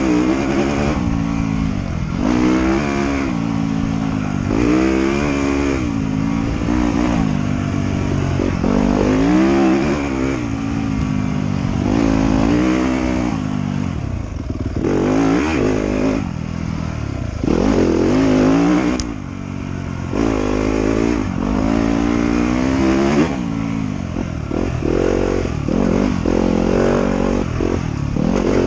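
Trail motorcycle engine revving up and dropping back over and over as the throttle is worked on and off, in short surges every second or two. There is a brief click about two-thirds of the way through.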